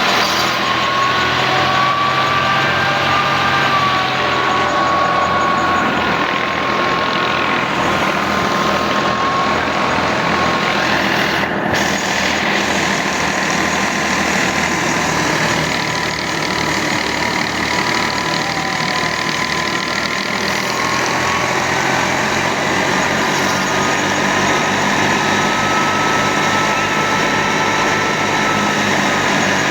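Al-Ghazi tractor running steadily under load while driving a threshing machine: an even, loud mechanical din with a thin high whine that drifts slightly in pitch.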